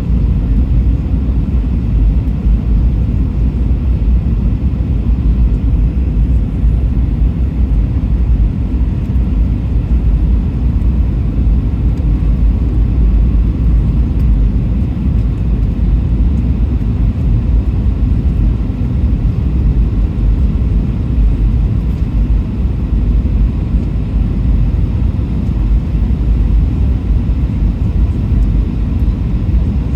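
Steady low roar of an Airbus A320 in flight, heard from inside the passenger cabin: engine noise and airflow past the fuselage, unbroken and unchanging.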